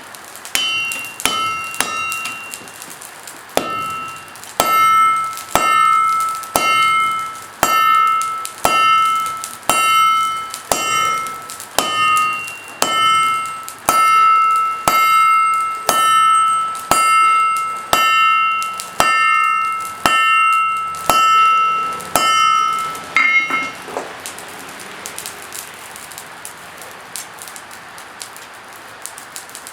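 Blacksmith's hammer striking steel on an anvil at a steady pace of about one blow a second, each blow leaving a bright ringing note from the anvil, forging out a dagger blade. The hammering stops about 24 seconds in.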